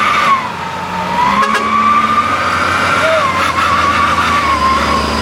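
Heavy truck running, with a high whine that wavers up and down in pitch over the engine's low drone.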